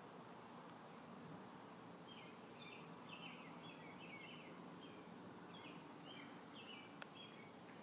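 Near silence: a low steady hiss with faint high chirps of a small bird twittering from about two seconds in, and a single light click near the end.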